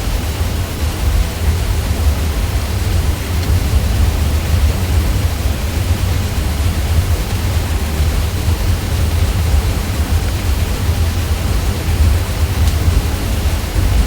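Ceiling fan hum: a steady low drone with an even hiss of moving air over it, unchanging throughout.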